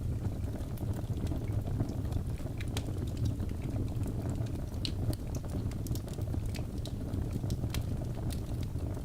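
Wood logs burning in a fireplace: a steady low rumble of flames with frequent small, irregular crackles and pops, one sharper pop about five seconds in.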